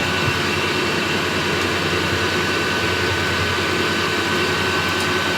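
Diesel air heater's blower fan running steadily with a constant high whine, its burner having flamed out on heated vegetable oil.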